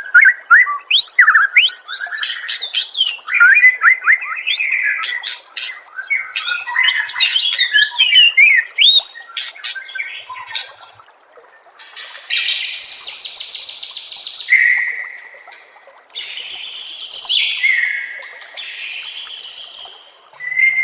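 White-rumped shama (murai batu) singing: a rapid run of varied whistled notes and chirps, then, after a short pause, three long, harsh buzzing trills.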